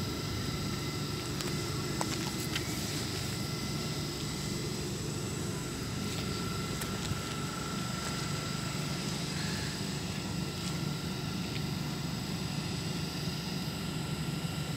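Hitachi Class 802 bi-mode train standing at the platform, its underfloor equipment giving a steady low drone with a thin, constant high-pitched whine over it.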